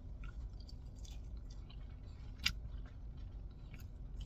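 Close-up mouth sounds of a person chewing a bite of fried chicken tender dipped in sauce: faint, scattered wet clicks, with one sharper click about two and a half seconds in.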